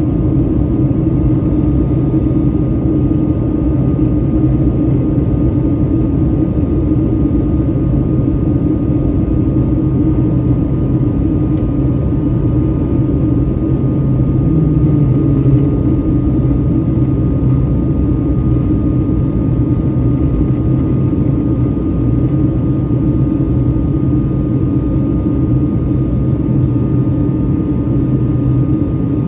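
Steady engine and air drone inside the cabin of a Boeing 757-200 airliner, with a faint, constant high whine above it.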